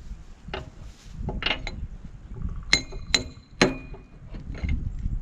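Small sledgehammer striking a steel punch to drive a pivot pin out of a backhoe's boom joint, a series of irregular sharp metal-on-metal hits. Several hits ring on briefly, the loudest coming in a cluster of about three near the middle.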